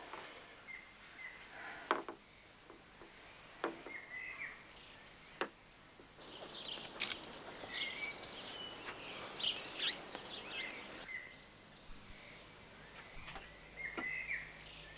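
Songbirds chirping and twittering, busiest in the middle, with a few sharp clicks in the first half.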